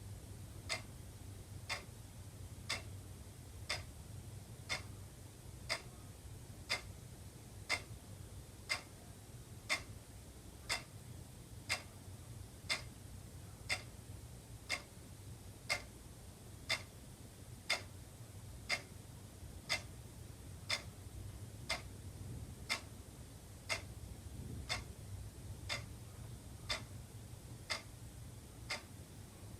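Wall clock ticking steadily, one tick about every second, over a faint steady low hum.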